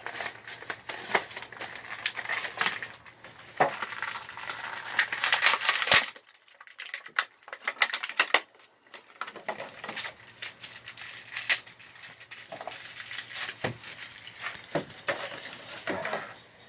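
Plastic toy packaging and small plastic toy parts being handled: crinkling, rustling and sharp clicks and rattles, loudest about five to six seconds in.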